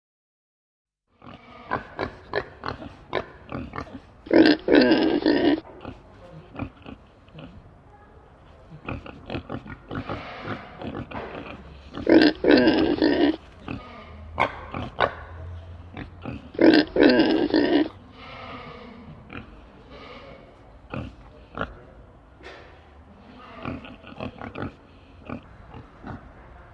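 Pigs grunting in many short, irregular bursts, starting about a second in, with three loud squeals of a second or so each.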